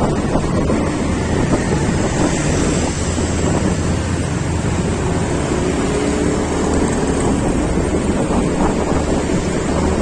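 Wind rushing over the microphone of a moving vehicle on the road, a steady loud noise over a low rumble of engine and road.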